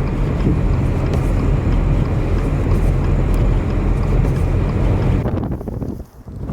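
Loud, steady low rumble of a vehicle travelling on a snow-covered highway, with wind noise. It drops away suddenly about five seconds in, leaving uneven gusts.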